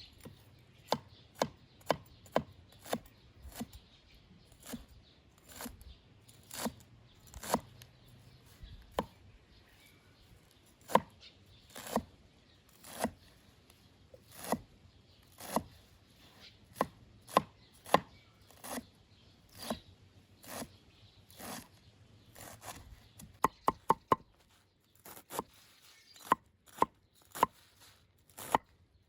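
Knife chopping food in separate, unhurried strokes, about one or two a second, with a quick run of four chops a little before the end.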